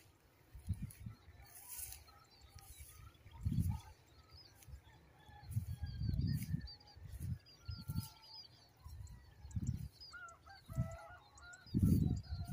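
Birds chirping and calling in the distance, many short repeated calls, over irregular low thumps and rustles roughly once a second.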